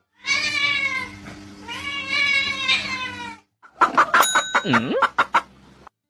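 Cat meowing: two long, drawn-out calls, followed about halfway through by a quick run of sharp clicks and knocks.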